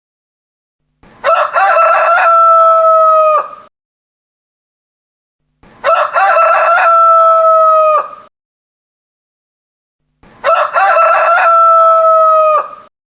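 A rooster crowing three times, about every four and a half seconds, each crow the same: a few broken opening notes, then a long held note that drops off at the end. The crows are separated by dead silence.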